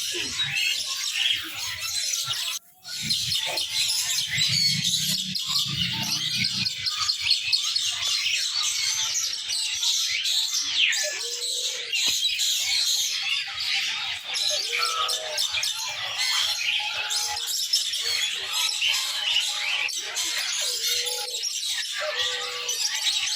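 Many small songbirds chirping and twittering densely and without a pause, a thick mix of short high calls, broken by a brief gap about three seconds in.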